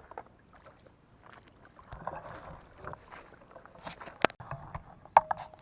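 Water sloshing and splashing as someone wades through it, with a few sharp clicks in the second half.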